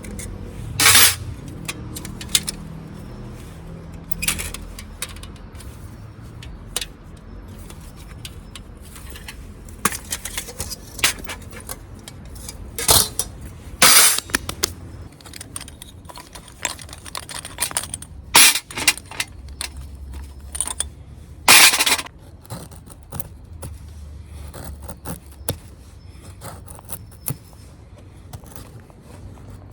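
Camping gear being handled by hand: a long run of small metallic clinks, knocks and taps, with a few louder scrapes or rustles.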